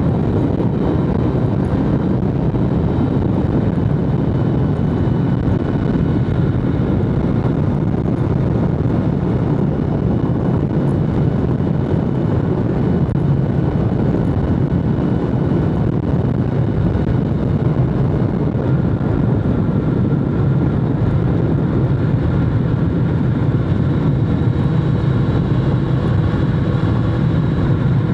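BMW S1000RR's inline-four engine running steadily while the bike is ridden, at a fairly even pitch, with wind and road noise underneath.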